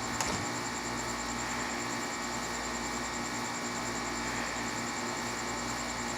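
Steady background hum and hiss with several constant tones, with no thunder, and a single brief click just after the start.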